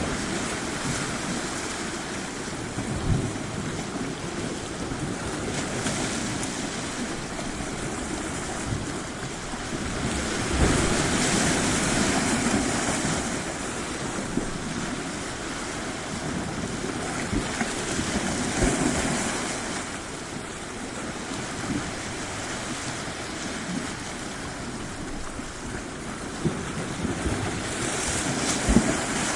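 Waves washing onto a shore in a steady wash, swelling louder a few times, with occasional low thumps of wind buffeting the microphone.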